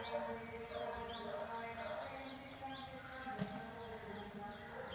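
Small birds chirping, with many short, quick high calls repeating throughout.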